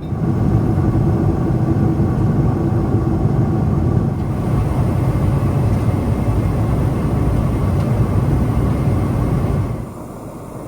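Boeing 777-300ER engine and airflow noise heard inside the cabin: a loud, steady rumble with a faint steady hum in it, dropping abruptly to a quieter hiss near the end.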